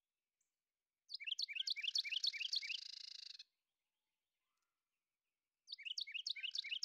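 A bird-like chirping song, heard twice: each phrase is a quick run of falling chirps that ends in a buzzy trill, starting about a second in and again near the end.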